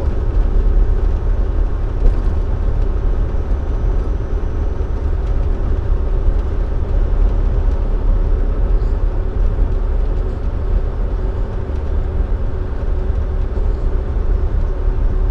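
Dump truck's diesel engine and road noise heard from inside the cab while cruising at highway speed: a steady, deep rumble with a faint hum above it.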